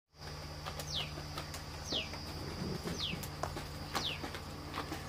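A bird repeating a short, high, falling whistle about once a second, over a faint steady hum.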